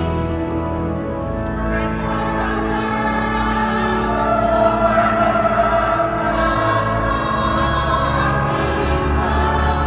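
Choir singing a sacred piece in long held notes, with a deep sustained bass beneath the voices.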